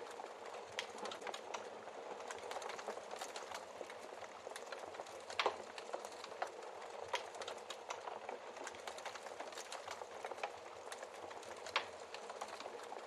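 Wood fire crackling steadily, with frequent small snaps and a few louder pops, the loudest about five and a half seconds in and again near the end.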